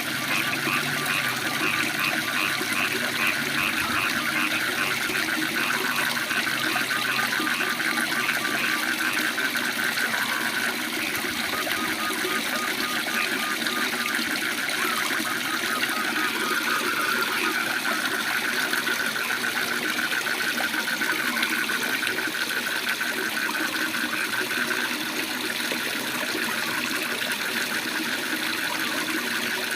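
A waterfall rushing steadily, with frogs calling in fast, evenly pulsed trills over it.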